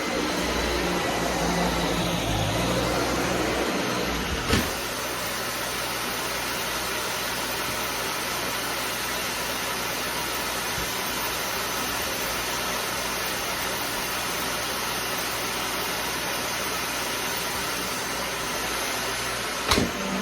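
Vacuum cleaner running steadily, with a sharp knock about four and a half seconds in and another near the end.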